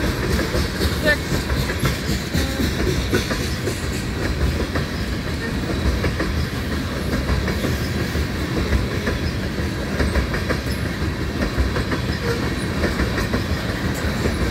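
Loaded coal cars of a long freight train rolling past: a steady rumble of steel wheels on rail, with scattered clicks and clanks.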